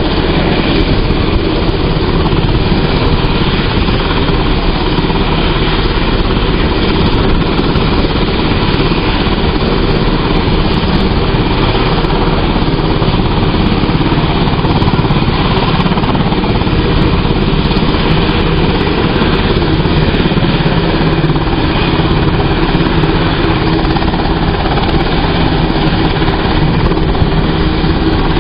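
UH-60J helicopter's twin turboshaft engines and rotor running steadily on the ground: a loud, even rush with a low hum that does not change.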